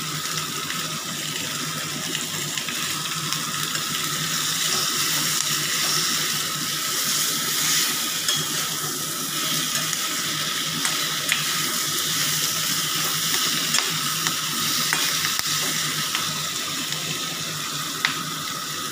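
Potato wedges and green chillies sizzling steadily in hot oil in a metal kadai, stirred and turned with a spatula, with a few light clicks of the spatula against the pan.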